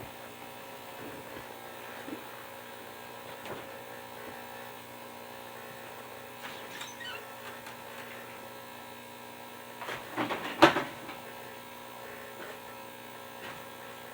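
Steady electrical hum with a few faint clicks. About ten seconds in comes a short, loud, noisy burst lasting about a second.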